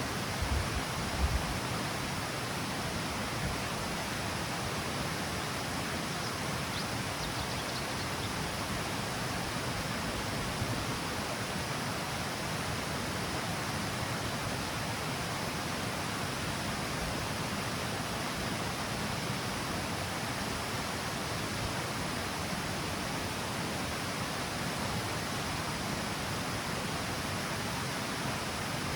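Steady rushing of river water pouring over the steps of a small cascade, an even, unbroken sound. A few brief low thumps come about a second in.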